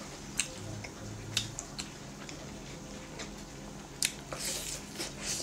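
A bite into a piece of fried chicken about four seconds in, a sharp snap followed by about a second of chewing. A few short, soft clicks come before it.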